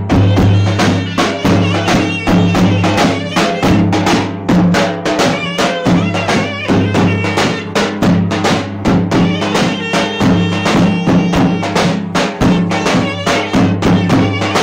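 Loud folk dance music: a fast, steady drum beat under a reedy wind-instrument melody, over a low held drone.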